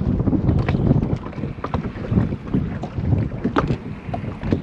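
Heavy wind buffeting the microphone on a boat, with water lapping against the hull and many small scattered knocks and clicks.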